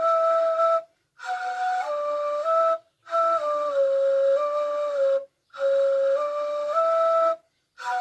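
Ney (Turkish end-blown reed flute) playing a slow, breathy melody of held notes that step up and down. It comes in phrases of about two seconds, each broken off by a short pause.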